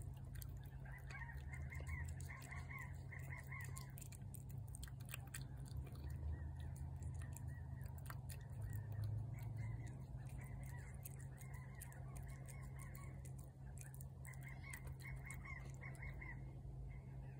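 A bird calling in runs of short repeated notes, three times: about a second in, around six seconds in, and near the end. Under it, faint clicks from a cat eating wet food off a plate and a steady low rumble.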